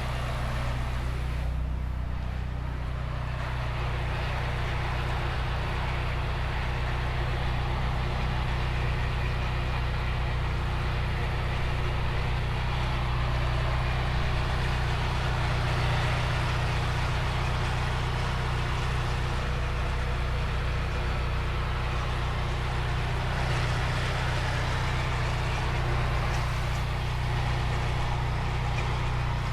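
Nissan 240SX engine idling steadily while its cooling system is being bled of air after a coolant refill.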